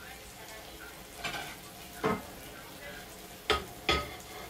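Chicken breasts sizzling steadily on a hot stovetop griddle, with three sharp clacks of kitchenware about two, three and a half and four seconds in.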